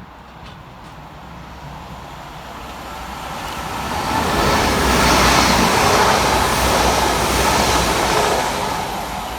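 Two coupled Transport for Wales Class 197 diesel multiple units passing fast through a station. The rush of the train builds to its loudest about five to eight seconds in, then begins to fade.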